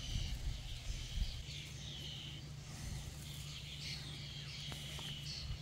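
Small songbirds chirping and singing in short repeated high notes, over a steady low rumble.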